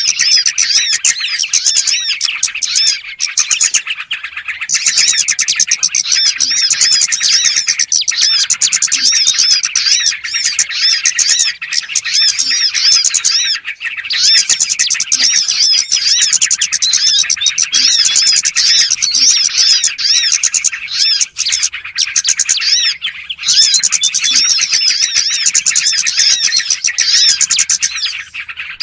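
A lure recording of many small songbirds chirping and trilling together in a dense, unbroken chorus of rapid high calls, thinning briefly a few times, with faint low notes every couple of seconds beneath it.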